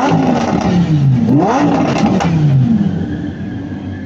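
Car engine revved hard twice, each rev climbing sharply and then falling back, before settling to a steady idle near the end.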